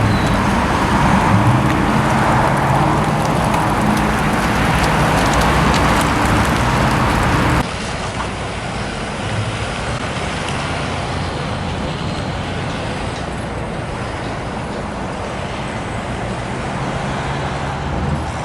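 Motor vehicle engine running with road noise. It is loud for about seven and a half seconds, then an abrupt cut leaves a quieter engine-and-traffic sound.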